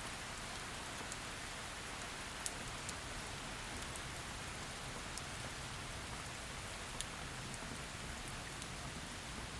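Heavy rain falling steadily, a constant hiss with scattered sharp drop ticks, two louder ones about two and a half and seven seconds in.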